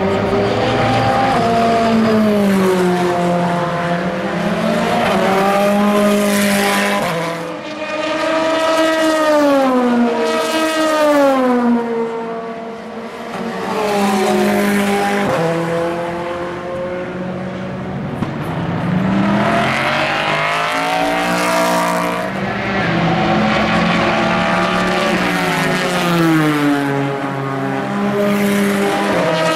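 Race car engines going past one after another, each engine note rising and then dropping in pitch as the car passes and changes gear.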